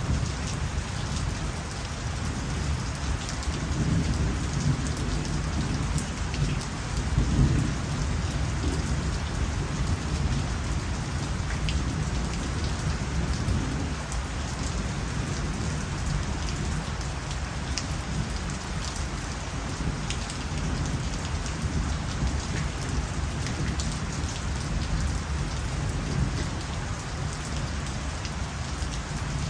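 Steady rain falling, with scattered sharper drop ticks. A low rumble of thunder swells a few seconds in and fades away.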